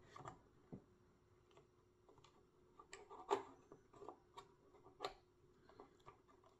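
Faint, scattered clicks and taps of small pieces being handled and tried in the slots of a puzzle box, the clearest a little past three seconds and at about five seconds.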